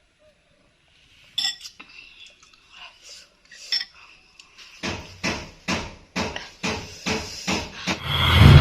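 Spoon clinking against a bowl: a few scattered clinks, then a steady run of knocks about two a second in the second half.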